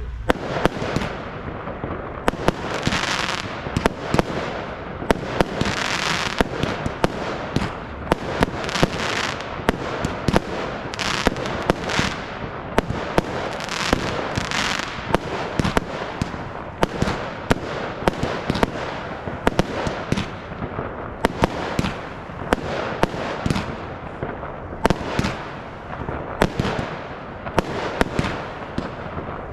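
Fireworks display firing continuously: a rapid, irregular barrage of sharp bangs from bursting shells, several a second, with swells of hissing and crackling every few seconds.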